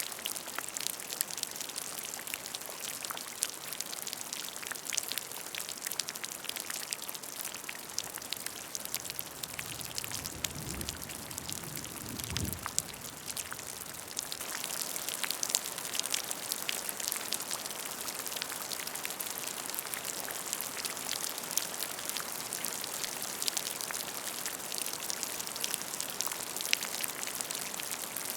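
Rain falling on a puddle of water: a dense, steady patter of drops. A brief low rumble passes underneath about ten seconds in.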